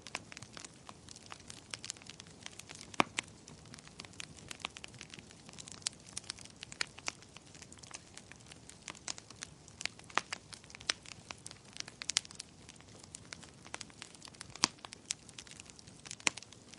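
Wood fire burning in a fireplace: irregular crackles and pops over a faint hiss, with a sharper pop about three seconds in and a couple more near the end.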